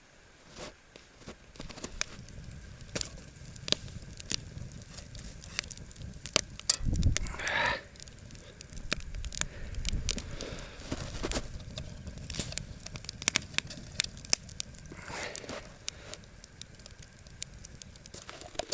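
Wood campfire crackling, with frequent sharp pops and clicks. A louder brief rustling scrape comes about seven seconds in, and a fainter one near fifteen seconds.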